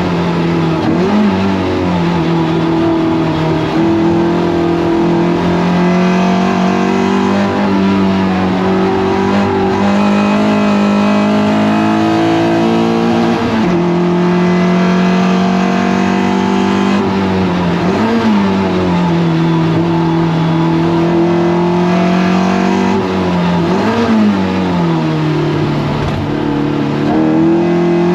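Toyota MR2 race car engine running hard under load. The revs hold fairly steady, then dip and climb back about four times as the driver brakes and changes gear through corners.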